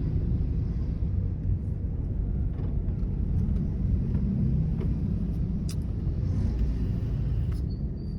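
Steady low road and engine rumble heard from inside a moving car's cabin, with a few faint clicks.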